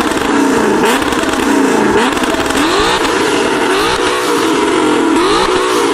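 Tuned performance car engine revved repeatedly, its pitch rising and falling about once a second. Sharp exhaust pops come with the first few revs.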